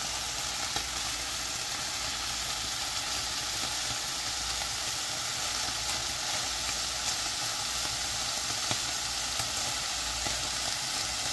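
Cubes of paneer sizzling steadily in hot oil in a frying pan, with a few light clicks of a metal fork against the pan as the cubes are turned.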